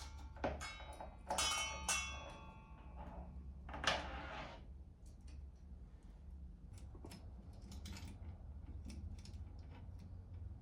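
Metal tools and bicycle parts clinking and ringing as they are handled during work on an old bicycle, with a short scrape about four seconds in, then scattered light ticks. A steady low hum runs underneath.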